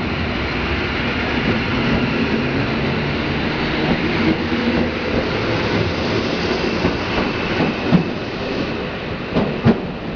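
Passenger coaches of a departing regional train rolling past a platform at low speed, with a steady rumble of wheels on rail and a few sharp clacks near the end.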